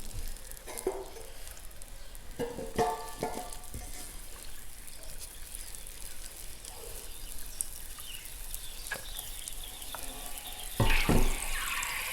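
BIA chalk balls fizzing and crackling in water as bubbles pop, with scattered sharp clicks and small plops. Near the end comes a louder splash and rush of water.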